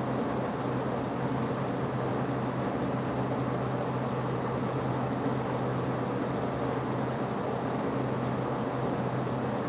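A steady machine hum with an even hiss, a constant low tone that does not change.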